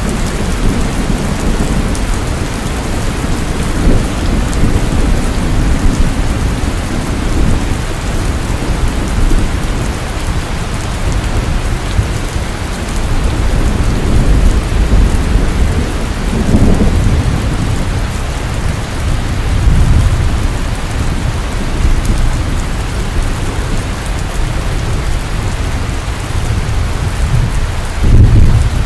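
Steady heavy rain falling, with low rumbles of thunder swelling now and then, the strongest near the end.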